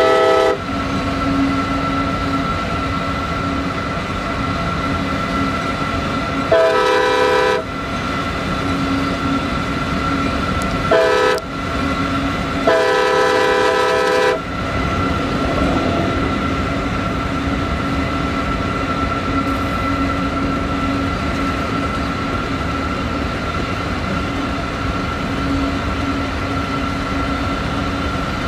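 Freight train with CSX diesel locomotives passing, its multi-tone air horn sounding the grade-crossing signal: a blast ending at the very start, a long one about seven seconds in, a short one about eleven seconds in and a longer one about thirteen seconds in. Under and after the horn, the steady rumble and clatter of the train on the rails.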